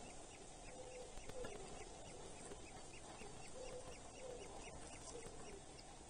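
Faint birdsong and calls: a long run of short, quick high notes, about four a second, with a few low wavering notes that glide in pitch, over a steady hiss.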